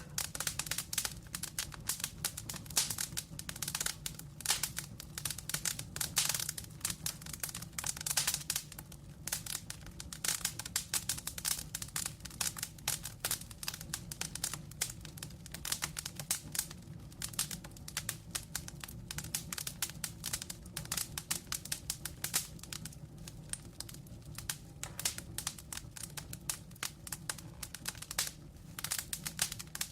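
Wood fire in a fireplace crackling: logs popping and snapping in rapid, irregular clicks over a low steady rumble.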